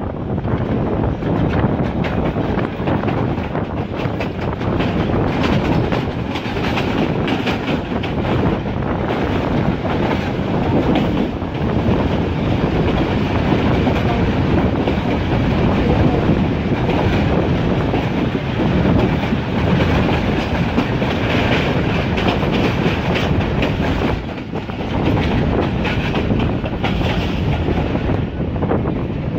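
Passenger train running at speed, heard from an open carriage window: the coach wheels clatter steadily over the rails, with many sharp clicks over a continuous rumble.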